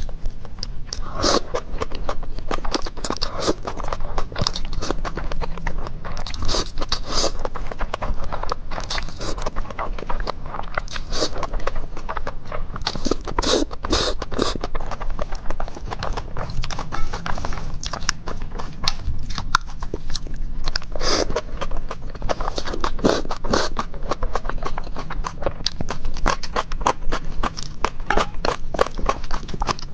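Close-miked eating sounds: a person chewing and slurping spicy instant fire noodles and runny eggs, with a continuous run of wet mouth smacks and clicks.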